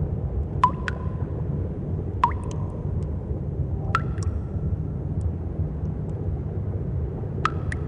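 Cave ambience: water drops fall into a pool four times, each a sharp plink with a short ringing tone. Under them runs a steady low rumble.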